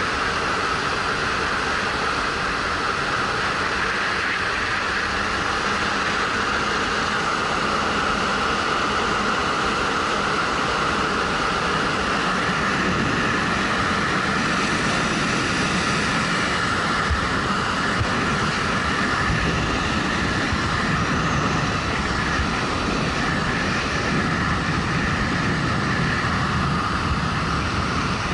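Wind rushing over a helmet-mounted action camera at steady riding speed, with the 2013 Suzuki GW250's parallel-twin engine running underneath.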